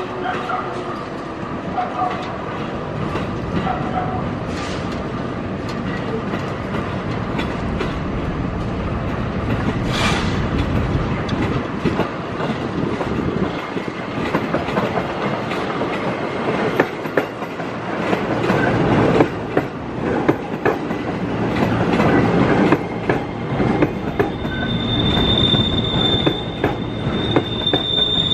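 JR 205 series electric multiple unit running through the switches, its wheels clattering over the points and rail joints. A high, steady flange squeal comes in over the last few seconds as the wheels take the curve.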